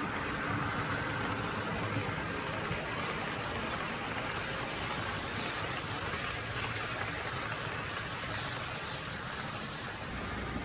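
HO-scale model train running along the layout's track, a steady rolling rumble and whir of motor and wheels.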